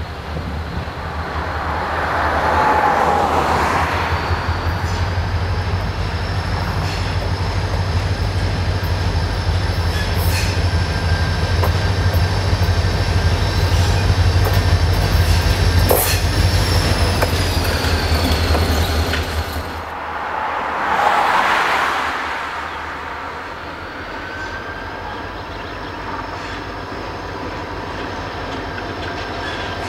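Diesel-led freight train passing close by: the locomotive's deep engine rumble, then the cars rolling past with a steady high-pitched wheel squeal. About two-thirds through, the engine rumble drops away, leaving the rolling cars and the squeal.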